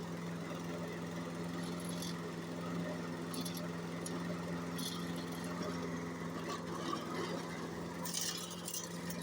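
Toro push lawn mower's small engine running steadily, freshly fitted with a new carburetor, fuel filter, spark plug and gaskets, now starting and running. A few short clicks and rattles sound over it.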